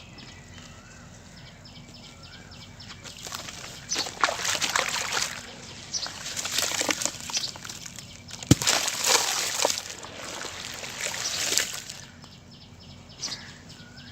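Sand-cement crumbling and breaking apart in repeated bursts of gritty crackling, starting about four seconds in, with one sharp crack near the middle.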